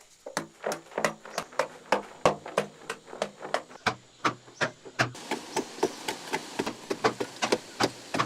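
A tool striking hard material again and again, about three quick sharp knocks a second, each with a short ring; a steady hiss joins about five seconds in.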